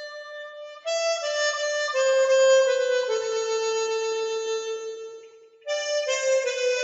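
Harmonica playing a slow melody of long held notes. One note fades away about five seconds in, and after a short breath the playing picks up again.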